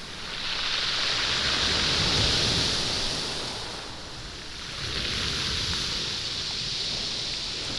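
Waves washing in over a stony beach, the stones rolling and rattling in the surf. Two surges: one builds about half a second in and fades by about four seconds, the next rises about five seconds in.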